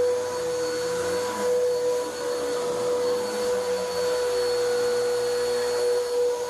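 Vacuum cleaner motor running steadily with a high, even whine, its lower hum shifting as it is worked over carpet to pick up dry soil before cleaning.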